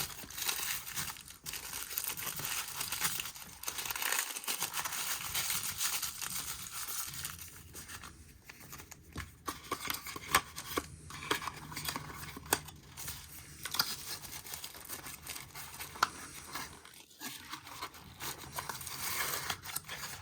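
Packaging crinkling and rustling as it is handled, with scattered small clicks and taps.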